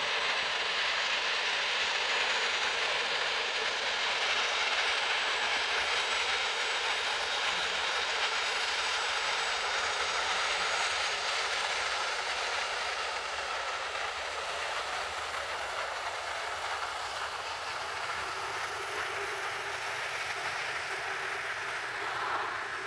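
Jet airliner engines: a steady rushing noise with a faint high whine, slowly easing over the second half.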